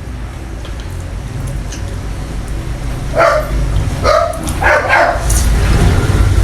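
A dog barking: three short barks a little past the middle, over a steady low rumble.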